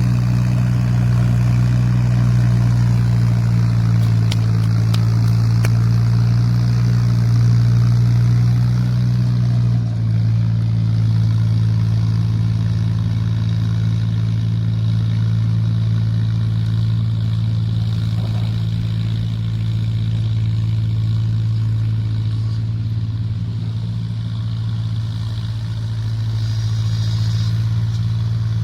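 Mahindra 265 tractor's three-cylinder diesel engine running steadily, its pitch dropping a little about ten seconds in.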